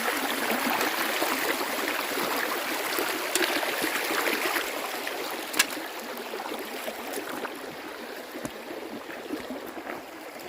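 Creek water running over rocks, a steady rushing that slowly fades. A few sharp clicks sound over it, the loudest about five and a half seconds in.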